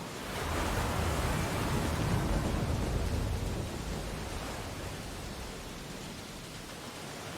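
Ocean waves on a beach: a wave breaks and surges in about half a second in, then washes back and fades over the next few seconds into a steady surf hiss.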